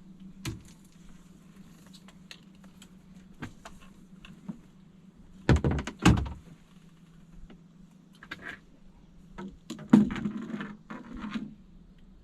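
Scattered light knocks and clicks over a steady low hum, with two loud thumps close together about five and a half seconds in and another loud thump near ten seconds.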